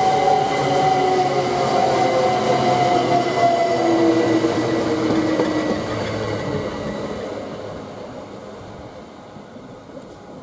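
Class 387 electric multiple unit braking to a stop, its traction motors whining in several tones that slowly fall in pitch, with wheel and rail noise. The sound fades after about six seconds as the train comes to rest.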